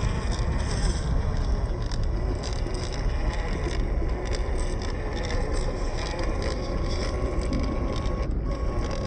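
WPL C24 1/16-scale RC crawler truck driving over rock: its small electric motor and gearbox whine steadily, with scattered scrapes and clicks from tyres on rock over a low rumble.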